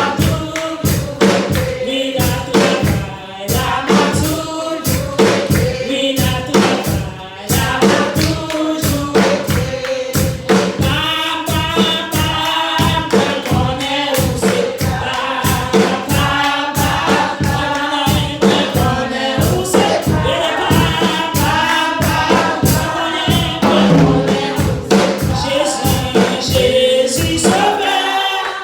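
A congregation singing a gospel song together over a steady drum beat; the drums drop out right at the end.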